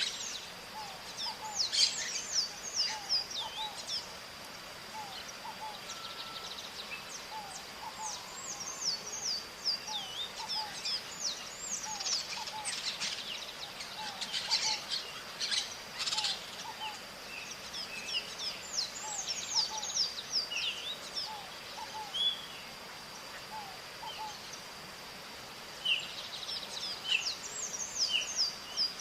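Maritacas (small parrots) calling: rapid clusters of short, high, falling notes with brief lulls between flurries. Fainter, lower short notes repeat in the background, and a steady thin high tone runs underneath.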